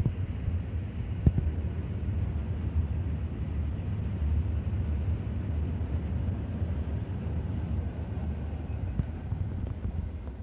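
Freight train of open steel box wagons rolling past: a steady low rumble of wheels on the rails, with one sharp knock about a second in.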